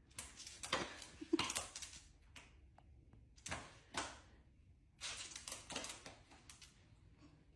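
Several short knocks and clattering rustles in three clusters: one in the first two seconds, a pair around three and a half to four seconds in, and another run a little past five seconds in.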